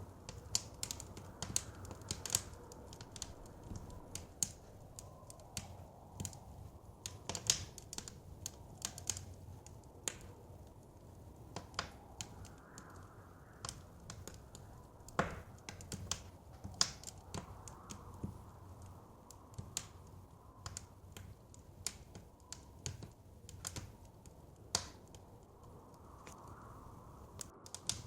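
Wood fire crackling in a fireplace: irregular sharp pops and snaps, a few of them louder, over a steady low rumble of blizzard wind.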